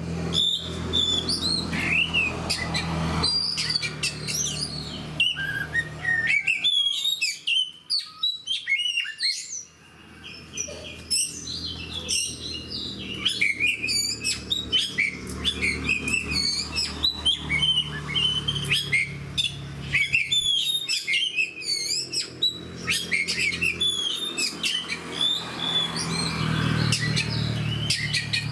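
Oriental magpie-robin (kacer) singing a long, varied song of quick whistles and chirps, almost without pause, over a low steady hum.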